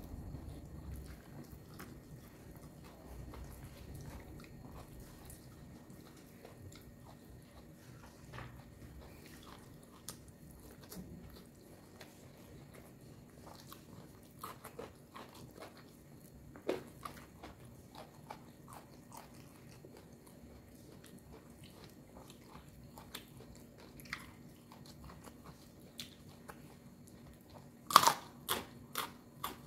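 A person biting and chewing crunchy raw vegetables close to the microphone: scattered crisp crunches throughout, with a louder run of bites near the end.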